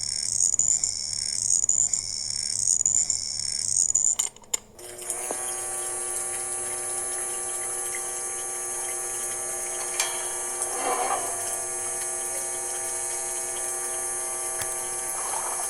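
Small electric motor running with a steady high whine; during the first few seconds the sound pulses about twice a second, then after a brief break it settles into an even, unchanging whine.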